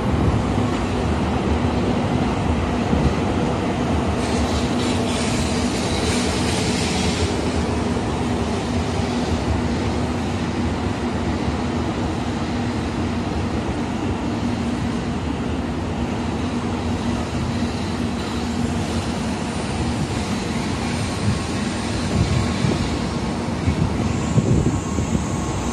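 Tokaido Shinkansen train running slowly through the station: a steady rumble of wheels and running gear with a low steady hum. A burst of hiss comes about five seconds in, and a high steady tone starts near the end.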